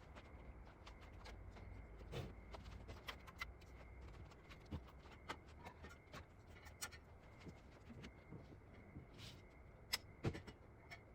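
Faint, irregular small clicks and light knocks over a quiet background with a faint steady high-pitched tone.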